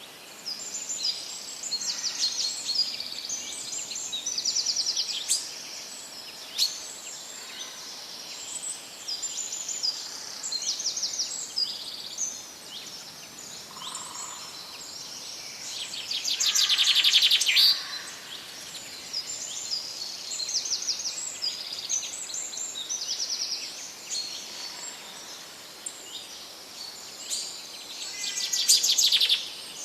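Songbirds chirping and singing over a steady hiss: many short repeated chirp phrases, with louder rapid trills about halfway through and again near the end.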